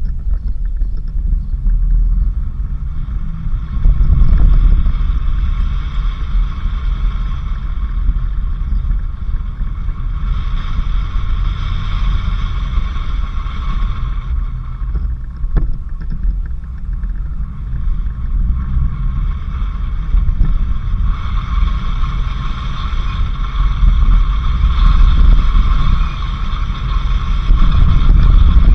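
A vehicle driving on a dirt road: a steady low rumble of engine and tyres, with a higher steady hum that comes in about ten seconds in and again past the twenty-second mark.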